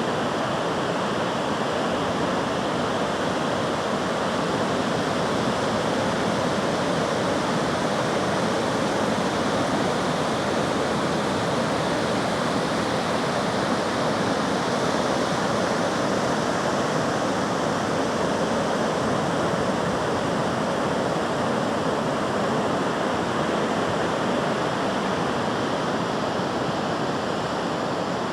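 Steady rushing water, an even noise that holds level throughout without the rise and fall of breaking waves.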